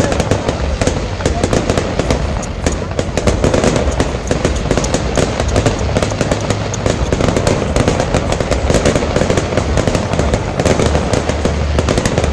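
Fireworks going off in quick succession: dense crackling and popping with many sharp bangs, with no break.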